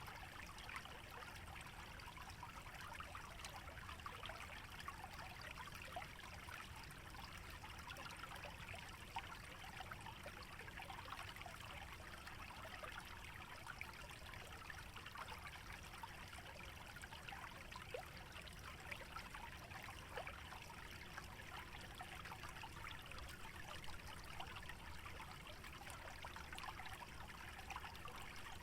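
A small stream trickling and burbling steadily through a wetland, a soft, even flow of many tiny splashes.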